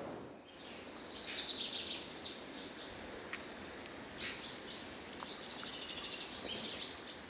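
Small songbirds singing: series of high, rapid chirps and trills over a faint background hiss.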